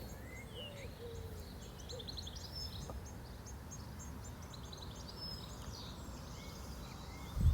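Nature soundscape of birdsong: rapid repeated high chirps and trills, with a few lower falling calls in the first two seconds, over a steady low background hum. Just before the end a much louder low rumbling sound cuts in suddenly.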